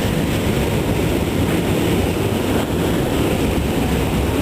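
New York City subway train running, a steady rumble of wheels on the track heard from inside the moving car.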